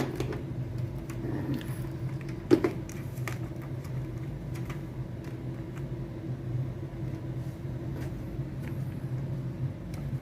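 A few sharp clicks and knocks of parts being handled while the T-con board's connectors are fitted in a flat-screen TV, the loudest about two and a half seconds in, over a steady low hum.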